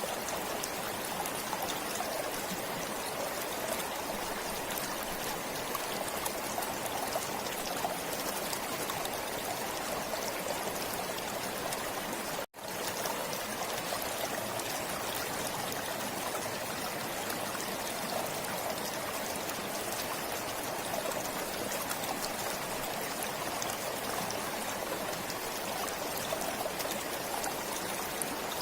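Stream water flowing steadily. The sound cuts out for a split second about twelve seconds in.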